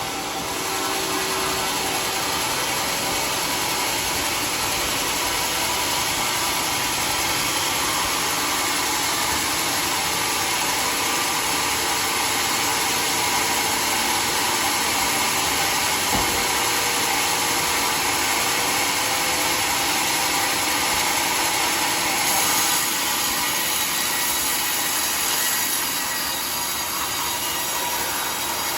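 Sawmill saw running steadily through wood, a loud even machine noise with a faint whine. There is a short knock about halfway, and the sound gets brighter and hissier for a few seconds late on.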